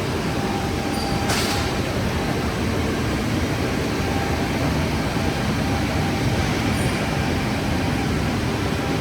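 Holzma Optimat HPP380 CNC beam saw running: a steady mechanical rush of noise, with one short sharp click about a second and a half in.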